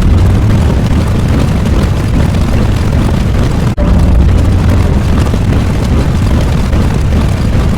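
Loud, heavy rumbling noise effect, like a blast or engine roar, repeating in segments of about four seconds with a brief break between them, once near the middle.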